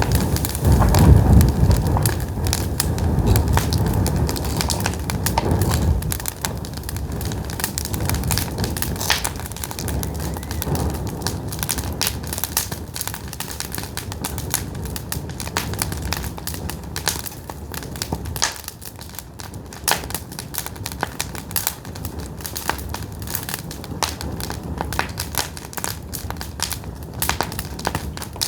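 Pine firewood burning, crackling with many irregular sharp pops and snaps. A low rumble under the crackle fades after about six seconds.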